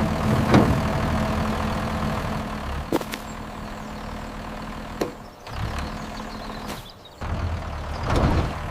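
Excavator engine running steadily, with louder bursts just after the start and near the end. Two sharp knocks come about three and five seconds in, and the engine dips briefly near the seventh second.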